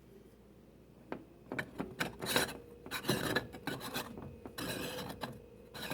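Small metal camping percolator being assembled by hand: the top screwed down on its threads and parts set in place, giving irregular scraping and rubbing strokes with a few light clicks, starting about a second in.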